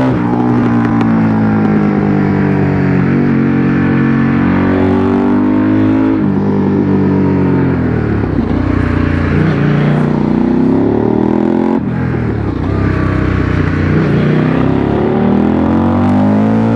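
Motorcycle engine on a mountain road, its pitch climbing under acceleration and dropping sharply a few times as the rider shifts or rolls off, with wind noise.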